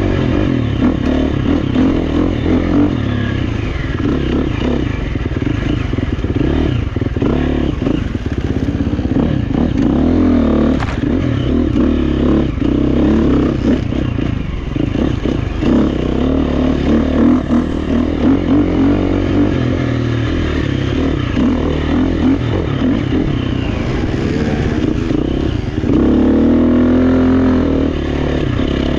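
Four-stroke single-cylinder GasGas EX350F dirt bike engine under riding load, its revs rising and falling continuously as the throttle is worked, with some chassis clatter. It revs up louder about three seconds from the end.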